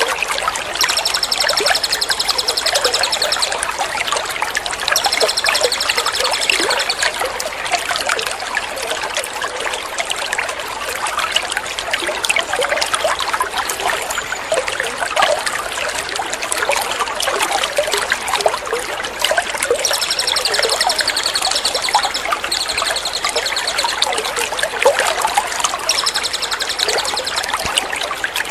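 Running water trickling and splashing steadily, with a small songbird's rapid, high-pitched trill repeating in bursts of about two seconds, twice near the start and three times in the last third.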